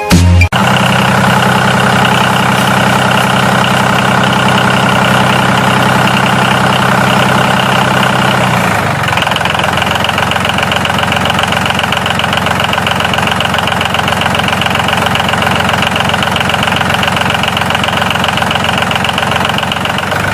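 Tractor engine idling with a fast, even knocking pulse. About 9 seconds in, the sound changes and its deep hum drops away.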